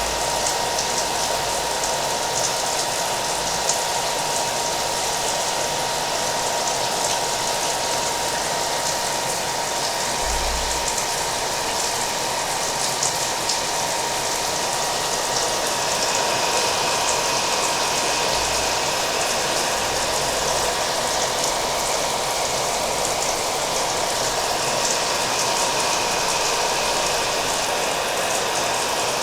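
Hair dryer running steadily, its whirring airflow with a thin constant whine, mixed with the patter of rain.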